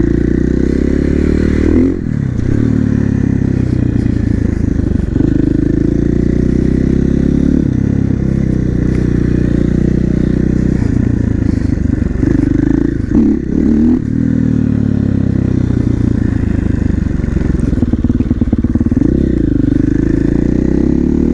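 KTM 450 supermoto's single-cylinder four-stroke engine running under way, its pitch climbing and falling as the throttle opens and closes through the gears, with short drops in revs about two seconds in and again around thirteen seconds.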